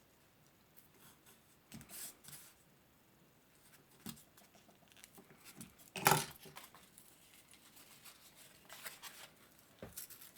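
Sharp knife cutting through a styrofoam food tray: short, irregular scraping and tearing strokes, the loudest about six seconds in.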